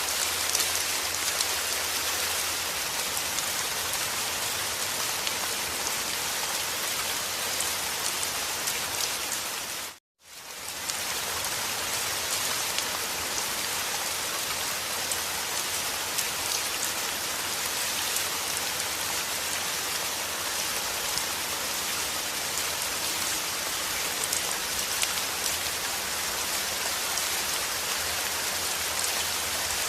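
Steady heavy rain, a dense hiss of drops on a surface. About ten seconds in it cuts out for a moment and then fades straight back in.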